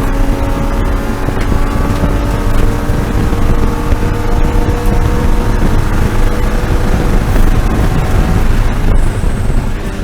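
BMW E36 M3 race car's straight-six engine pulling hard at high revs, heard from on board over wind noise; its pitch climbs slowly as the car accelerates, then eases off near the end.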